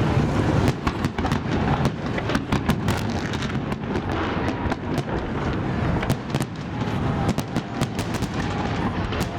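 Fireworks salute: shells bursting in a rapid, irregular series of bangs over a continuous low rumble.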